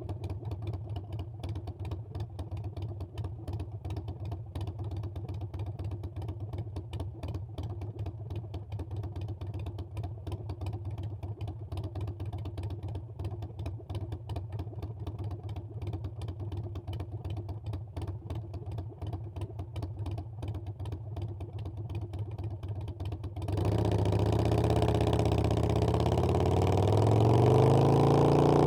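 Harley-Davidson Iron 883's air-cooled 883 cc V-twin idling with a steady, fast beat. About three quarters of the way through it gets suddenly louder and revs up, its pitch climbing steadily as the bike accelerates away.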